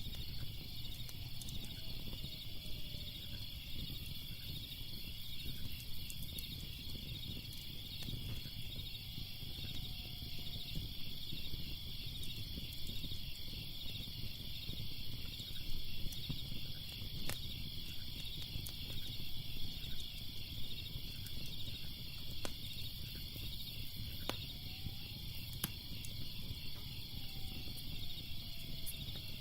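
Crickets chirping steadily in a fast pulsing chorus, with a crackling fire giving occasional sharp pops and a low rumble underneath.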